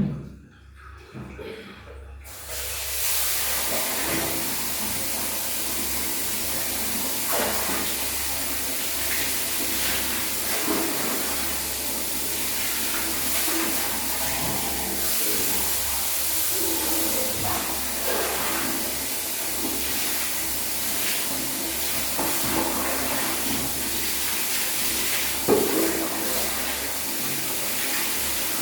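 Water running steadily from a tap or spray, starting about two seconds in.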